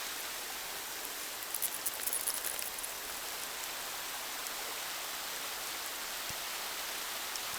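Steady, even hiss of snowstorm ambience, like light rain, with a few faint crunches or rustles about two seconds in.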